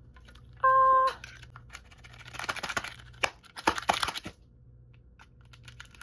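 Plastic packaging crinkling and rustling, with several sharp clicks, as a Pokémon card mini tin is handled and opened. About half a second in there is a brief steady tone.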